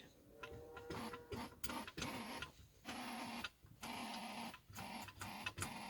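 Tractor air horn pressed again and again, giving only a run of short grunts under a second each instead of a proper blast: the air system has lost its pressure.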